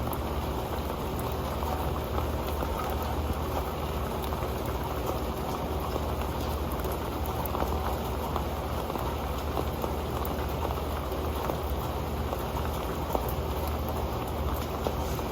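Steady rain falling on an old metal pan: a dense run of individual drop taps over a constant wash of rain.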